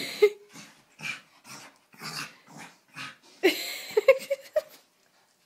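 A dog growling and yipping in short, quick bursts as it chases its tail, with a louder run of yelps about three and a half seconds in. It stops shortly before the end.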